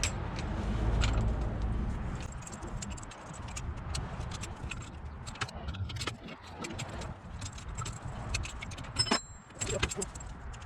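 Metal clinks and clicks of a monkey wrench and tools working on an engine part, over a low rumble that is loudest in the first two seconds.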